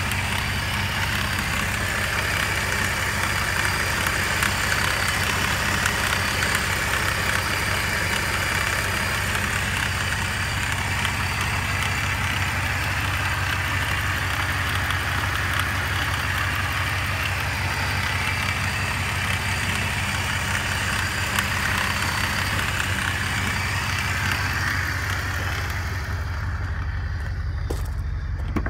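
2006 Chevrolet Monte Carlo SS's 5.3-liter V8 idling steadily during an engine test. A hiss above the engine note fades out near the end.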